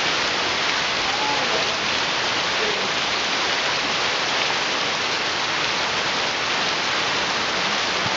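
Steady, heavy rain falling and pattering on surfaces, an even hiss that holds at one level throughout.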